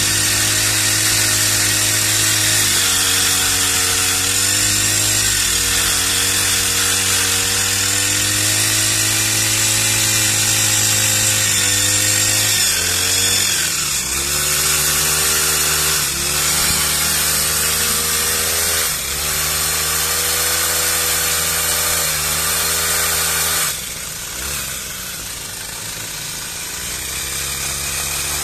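Petrol pole pruner's small engine running at high throttle, its speed dipping and picking up again several times. About 24 seconds in it drops to a lower, quieter speed, then rises again near the end.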